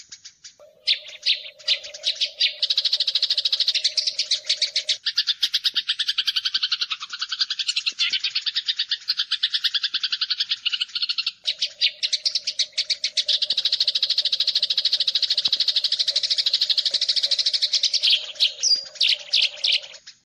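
Eurasian tree sparrows (burung gereja) fighting: a dense, rapid chatter of harsh chirps, many per second, breaking into a few separate chirps near the end.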